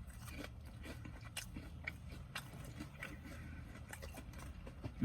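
A person biting into and chewing glazed fried chicken, with faint scattered crunches and mouth clicks.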